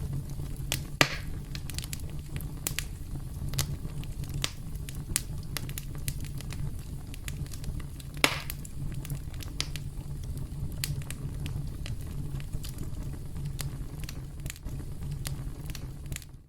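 Wood campfire crackling: a steady low rumble of the flames with many sharp pops and snaps, two of them much louder, about a second in and about eight seconds in.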